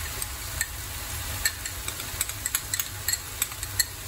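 Chopped onions and red peppers sizzling in oil in a skillet: a steady hiss broken by a dozen or so scattered sharp clicks and pops.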